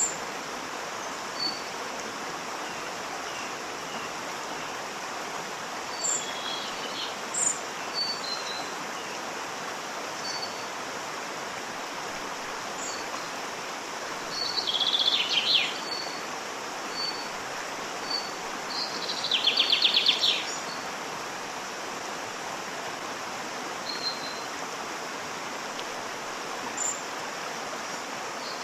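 Waterfall: steady rushing water, with small birds chirping over it. Two louder, rapid trilling bird calls come near the middle.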